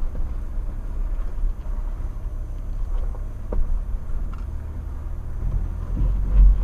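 Mitsubishi Pajero Sport driving over rough off-road ground, heard from inside the cabin: a steady low rumble of engine and running gear with a few light knocks, and a heavier low thump near the end.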